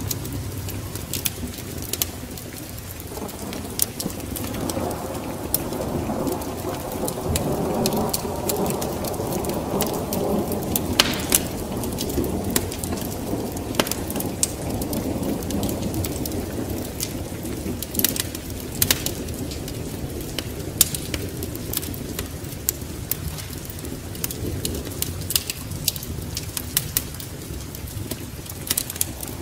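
Wood fire crackling with frequent sharp pops over steady rain, while a long low rumble of thunder swells up and fades away over the middle of the stretch.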